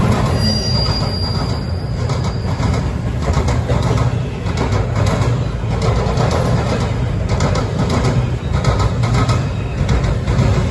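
Double-stack intermodal freight train of well cars rolling past: a steady rumble and clatter of steel wheels on the rails, with a thin, high wheel squeal in the first two or three seconds.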